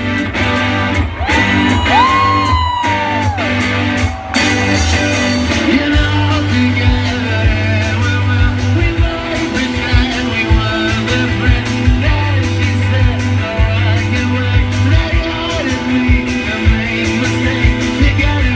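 Live rock band playing at concert volume, recorded from the crowd: drums, bass and electric guitars with a singer, and a guitar line that bends up and down in pitch about two seconds in.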